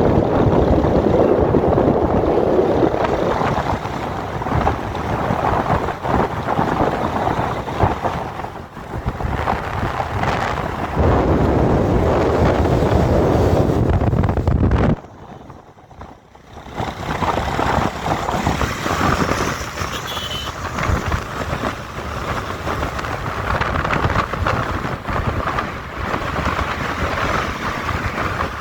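Road vehicle noise with wind rushing on the microphone. It drops away sharply about halfway through for a second or two, then returns at a slightly lower level.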